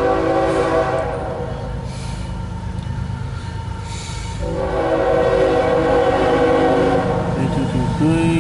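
CSX freight locomotive's air horn sounding two long blasts of several tones at once, the first cutting off about a second and a half in and the second starting about four and a half seconds in, over the steady rumble of the passing diesel locomotive.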